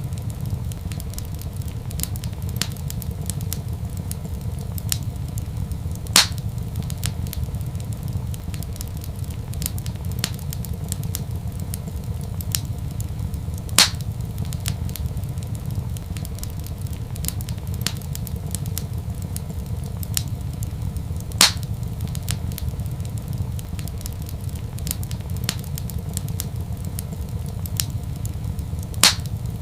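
Wood fire crackling in a fireplace over a steady low rumble, with many small ticks and a loud sharp pop about every seven and a half seconds, four in all.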